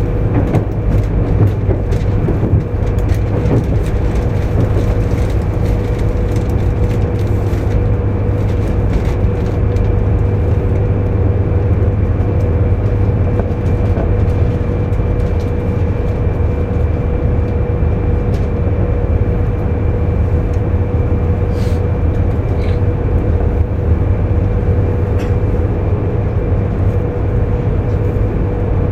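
Cabin noise of a JR East 200 series Shinkansen train running along the line: a loud, steady low rumble with a steady whine over it and a few faint clicks.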